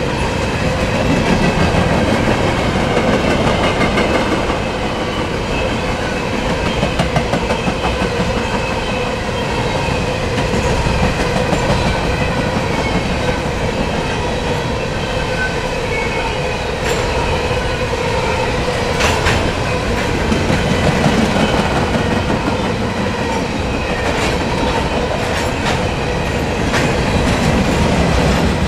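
Freight train of covered hopper cars rolling past at speed: a steady rumble with wheels clicking over the rail joints and a steady ringing note from the wheels on the rails. A few sharp clanks come in the second half.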